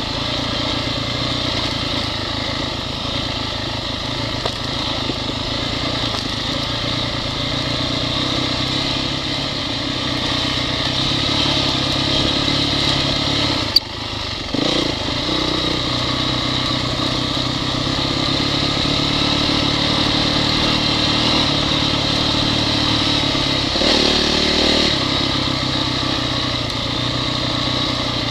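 Honda CRF single-cylinder four-stroke dirt bike engine running at low, fairly steady revs. There is a sharp click and a brief dip about halfway through, and a short rise in revs near the end.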